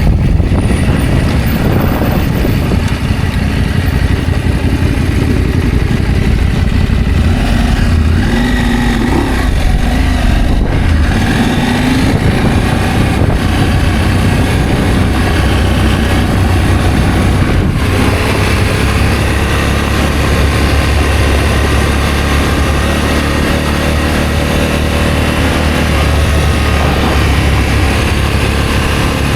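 Adventure motorcycle engine running while riding, over a steady rush of wind and road noise. Its pitch rises and falls in the first half, then holds steadier.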